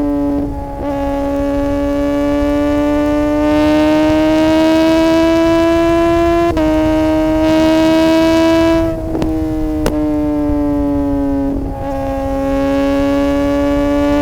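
Suzuki GSX-R600 inline-four sport bike accelerating hard at high revs, its exhaust note climbing slowly. The pitch drops abruptly with a short crack at quickshifter upshifts, about a second in and again around nine and twelve seconds, with a low wind rumble underneath.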